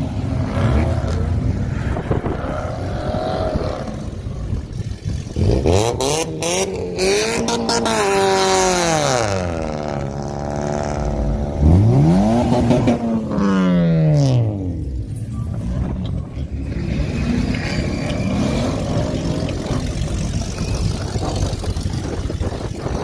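A car engine revved hard twice: the pitch climbs, holds briefly and falls, then climbs and falls again, with a few sharp pops early in the first rev. Steady crowd-and-traffic noise of a car meet runs underneath.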